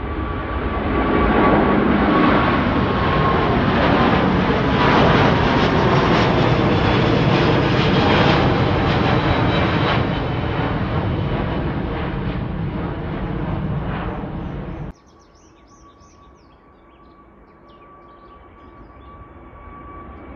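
Jet airliner taking off: loud engine noise that builds within the first couple of seconds, holds, then fades as the aircraft climbs away. The noise cuts off abruptly about 15 s in, leaving a quieter steady jet whine that grows louder again near the end.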